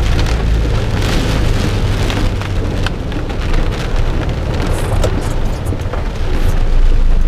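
Torrential thunderstorm rain pouring down, with many sharp drop impacts close by. A low rumble sits under it at the start and fades within the first second.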